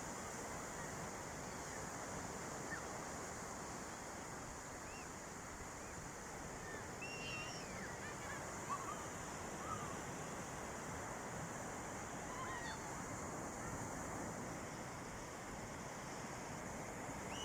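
Steady wash of sea waves breaking on a beach. A few faint, short high calls are scattered over it, mostly in the middle.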